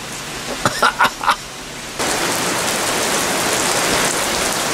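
Heavy rain pouring down on a concrete farmyard and its sheds: a loud, steady hiss that comes in abruptly about two seconds in, at a cut in the video. Before it, over quieter rain, there are a few short vocal sounds about a second in.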